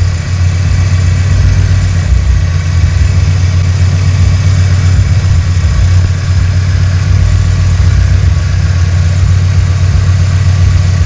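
Car engine idling steadily, a loud, even low drone with no change in speed.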